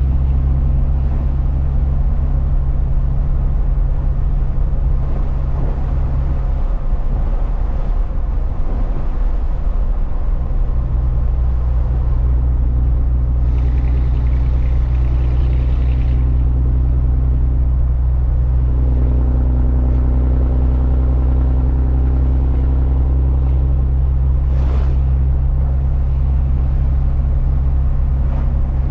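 Truck driving along: steady low drone of engine and road noise. The engine note shifts for a few seconds about a quarter of the way in, a short hiss comes about halfway, and a brief sharp sound comes near the end.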